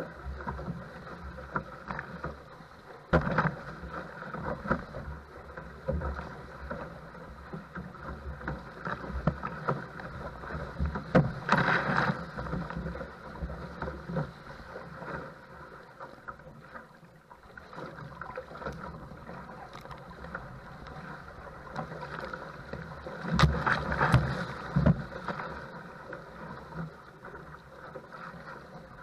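Choppy, wind-blown water slapping and splashing against a paddle craft under rough conditions, with wind rumbling on the microphone. Louder splashes come about three seconds in, around twelve seconds and near twenty-four seconds.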